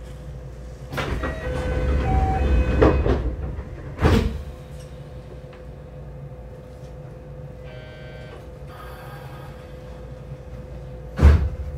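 Local electric train heard from inside the carriage: a steady running rumble and hum, swelling for a couple of seconds early on, with a sharp thump about four seconds in, a short buzzing tone about eight seconds in, and another heavy thump near the end.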